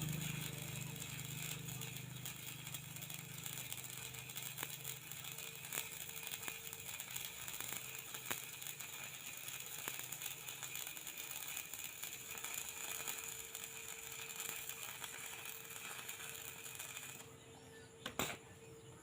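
Arc welding: a steady crackling hiss with small scattered pops, stopping about 17 seconds in.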